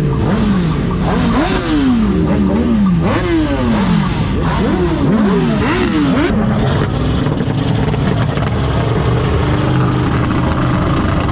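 Truck engine revved hard several times in quick succession, the pitch climbing and dropping with each blip, then running steadily for the last few seconds.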